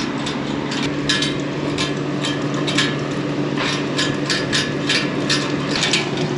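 A series of irregular sharp knocks, a few a second at times, over a steady engine hum.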